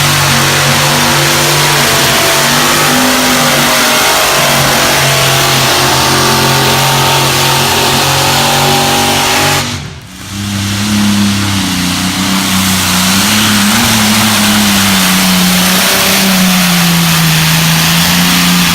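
Pull vehicle's engine running loud at high revs under load, its pitch wavering slightly; the sound cuts out briefly about ten seconds in and comes back.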